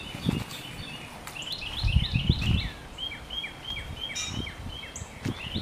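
Outdoor ambience with a bird chirping a quick series of short, repeated notes, with several low thuds on the microphone around two seconds in.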